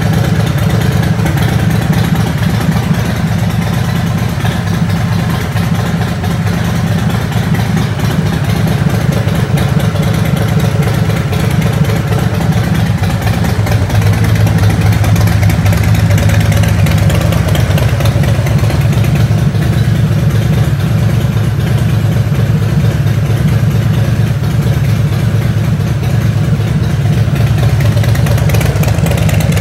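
Harley-Davidson Milwaukee-Eight 114 V-twin of a 2020 Street Bob idling steadily through Vance & Hines exhaust. It gets louder about halfway through.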